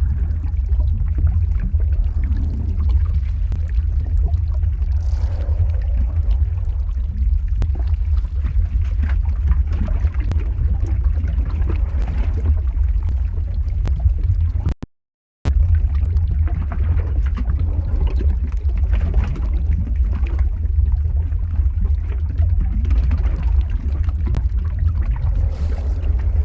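Lava flow ambience sound effect: a steady deep rumble with a fainter hiss and scattered sharp crackles. It cuts out to silence for about half a second midway, then carries on unchanged.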